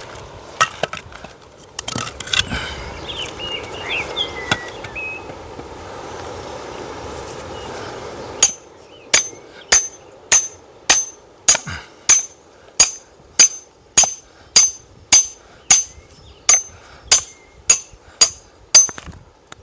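A hammer striking metal in a steady series of about two sharp, ringing blows a second, starting about eight seconds in. Before that there are only a few scattered knocks and rustling.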